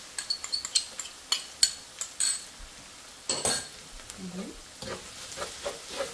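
Minced garlic and shallots frying in oil and caramelized sugar in a wok, crackling with scattered sharp pops. A wooden spatula stirs and scrapes through them in the second half.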